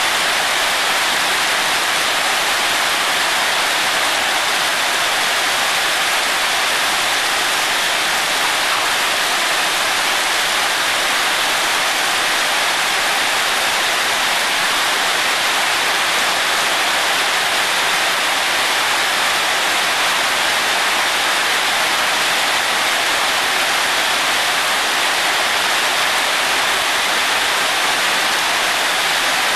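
Heavy rain falling steadily on wet paving and puddles, a dense, even hiss with no breaks or lulls.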